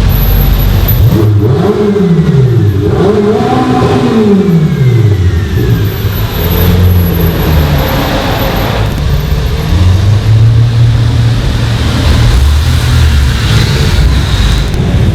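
Car engines revving and accelerating, the pitch climbing and then sliding down twice in the first few seconds, followed by engines running at a lower, steadier pitch.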